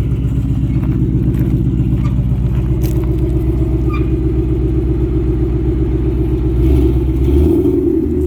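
2013 Shelby GT500's supercharged 5.8-litre V8 running at a steady idle, with a throttle change about six and a half seconds in that raises its note briefly.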